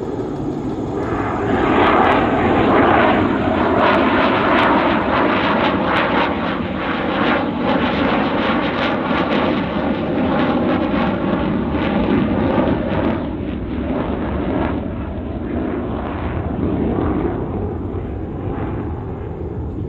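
B-2 Spirit stealth bomber's four turbofan jet engines as it flies past, a deep steady jet rumble. It builds over the first two seconds, is loudest a few seconds in, then slowly fades as the aircraft moves away.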